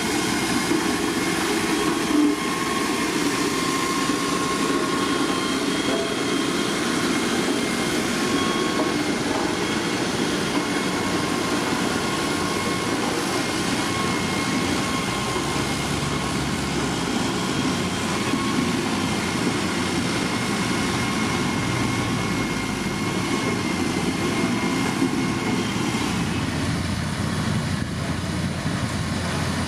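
Diesel engine of heavy road-building machinery running steadily under work, with a thin high whine over the engine noise that stops a few seconds before the end, when the low engine sound grows stronger.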